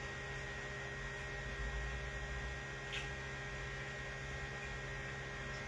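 Steady electrical hum over a low background hiss, with one faint tick about three seconds in.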